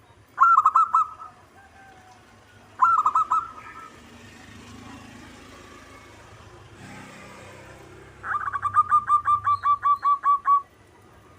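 Zebra dove (perkutut) calling: two short cooing phrases in the first few seconds, then a long run of about fifteen rapid cooing notes, roughly six a second, near the end.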